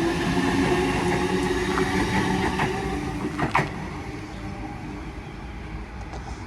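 Sydney Trains electric suburban train running with a steady motor whine over rumble. The sound fades from about three seconds in as the train moves away. A single sharp clank comes at about three and a half seconds.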